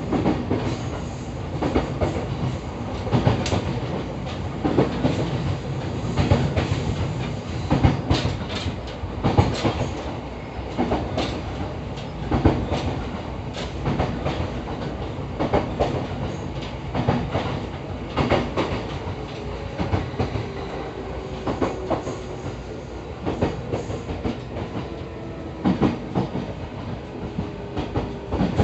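EV-E301 series ACCUM battery-electric train running, heard from inside the car: a steady rumble with wheels knocking over rail joints, often in quick pairs. A faint thin whine from the Mitsubishi IGBT inverter and traction motors sits under it in the second half, sinking slightly in pitch.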